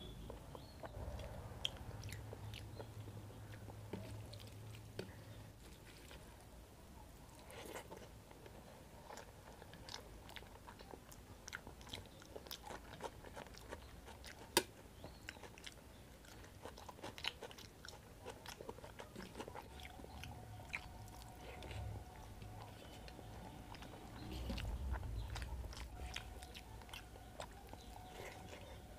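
Close-miked eating sounds of rice and curry eaten by hand: wet chewing and lip smacks with many short mouth clicks, and the occasional crunch of raw onion.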